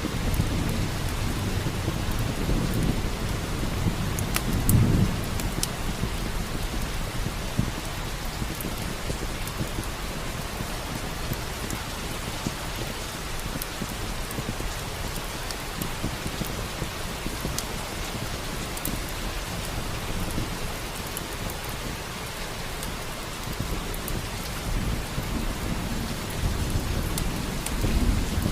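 Steady heavy rain with low rolls of thunder, one peaking about five seconds in and another near the end. A few sharp, thin crackles of a wood fire sound over it.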